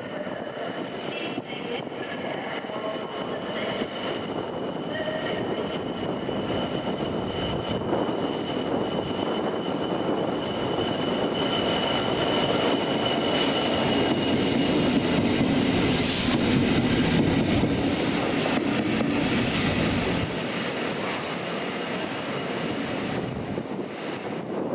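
Train running on rails with a steady rumble and a thin high wheel squeal through the first half; the running noise grows louder toward the middle and drops back about twenty seconds in.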